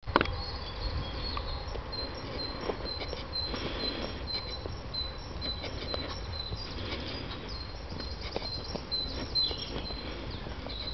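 A woodland songbird repeating one short, high note two or three times a second, over a steady low rumble with scattered clicks and rustles.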